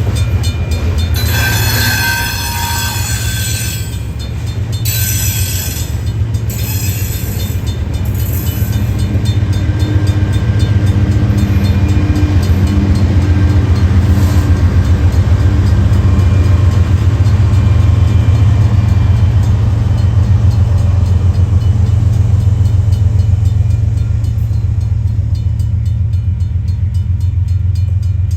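Freight train rolling past with a heavy, steady low rumble. During the first nine seconds there are several short spells of high-pitched metallic squealing, most likely wheel squeal.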